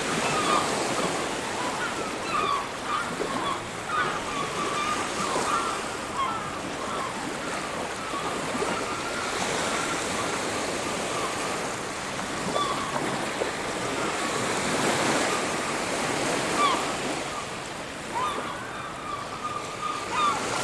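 Ocean surf breaking and washing on a beach in steady swells, with many short high calls scattered over it.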